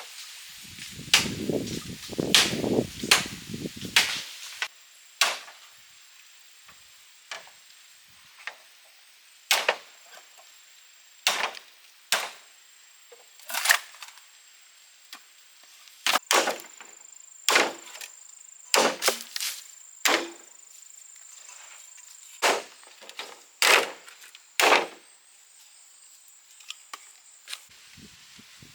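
Chopping: a blade strikes wood again and again, about twenty sharp blows at uneven spacing, most likely cutting bamboo. A low rumbling noise runs under the first few blows.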